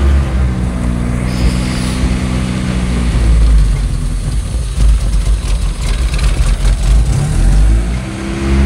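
B20-swapped Honda Civic's 2.0-litre four-cylinder running at a fast idle just after starting, heard from inside the cabin. The exhaust is a Yonaka system with a 2.25-inch DC header and test pipe, and it drones steadily with a deep rumble. The owner hears an exhaust leak somewhere underneath.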